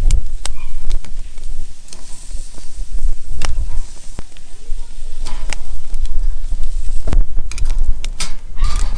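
Crackling and sizzling over a wood fire, with scattered sharp pops over a loud low rumble.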